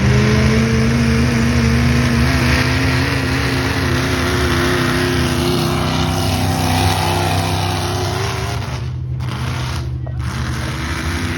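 Engine of a pulling vehicle at a tractor pull running hard under load, loud and steady. Its pitch climbs slowly, then eases off near the end.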